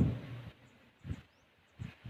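Thai temple drum (klong phel) beaten with a drumstick. A heavy stroke just before this dies away over the first half second, then one lighter stroke comes about a second in. The beating of this drum marks the monks' late-morning meal time.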